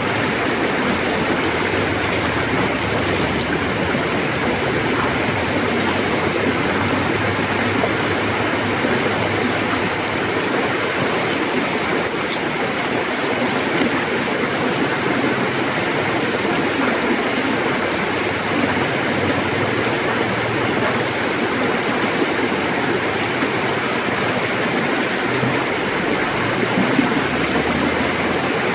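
River water flowing and rushing steadily, a continuous even rush without breaks.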